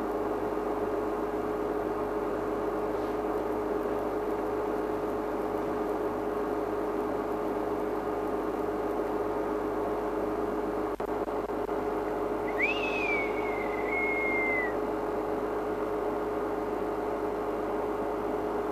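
A steady hum with one constant tone throughout. About twelve seconds in, a single whistled bird call of about two seconds: a quick upward sweep, a fall, then a held note.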